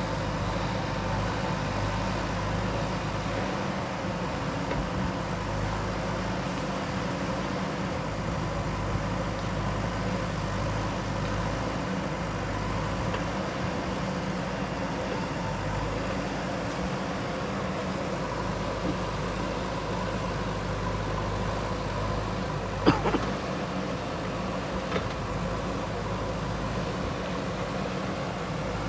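JCB 3DX backhoe loader's diesel engine running steadily at an even speed. A sharp metallic knock comes about two-thirds of the way through, with a fainter one shortly after.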